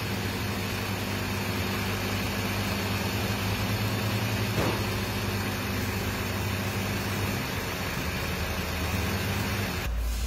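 Diesel engine of a Fiat Fiorino van idling steadily, its exhaust run through a particulate-filter cleaning machine. The sound changes abruptly just before the end.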